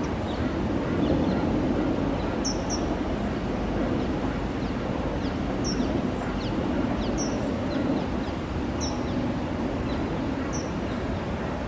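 A steady low background rumble with short, high bird chirps every second or two, some in quick pairs.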